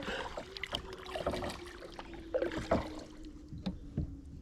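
Kayak paddling: paddle strokes dipping and dripping water, with scattered light knocks of the paddle against the kayak. A faint steady hum falls slowly in pitch underneath.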